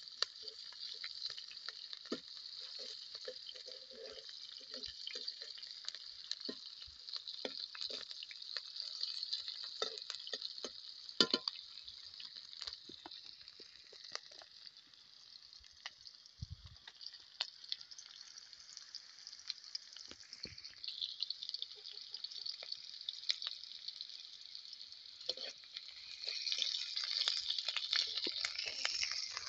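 Sliced onions and green chillies sizzling in hot oil in a steel kadai, with scattered clicks and scrapes of a metal spatula against the pan. The sizzle grows louder near the end.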